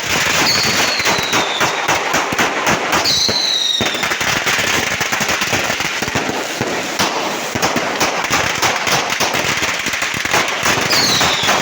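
Fireworks and firecrackers going off in a dense, continuous crackle of rapid bangs. Three high whistles falling in pitch cut through the crackle: one about half a second in, one about three seconds in, and one near the end.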